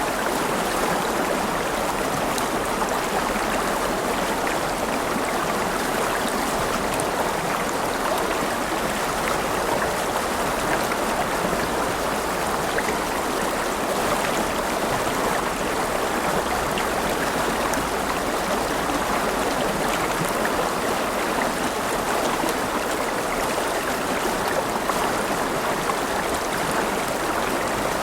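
River water running steadily over rocks: a continuous rushing, babbling flow.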